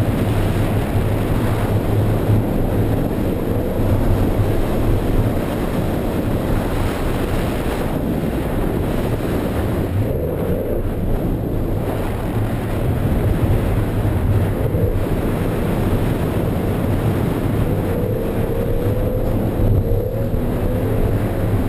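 BMW E46 M3's straight-six engine running under load inside the cabin, its revs rising and falling as the car is drifted, over a steady rush of tyres on a wet surface.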